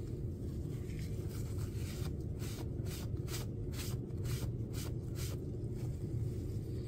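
A stir stick scraping around the inside of a mixing cup as glitter is mixed into epoxy resin: a run of short scratchy strokes, about three a second, through the middle of the stretch, over a steady low hum.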